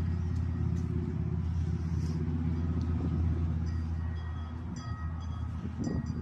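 Honda Goldwing 1800's flat-six engine idling with a steady low drone that eases a little in level after about four seconds.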